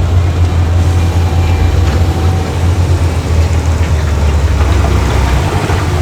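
Heavy diesel engine of earthmoving machinery running steadily with a deep hum, with a few scattered clanks.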